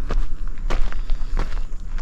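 A hiker's footsteps on a forest trail: three steps at an even walking pace, about one every 0.7 seconds.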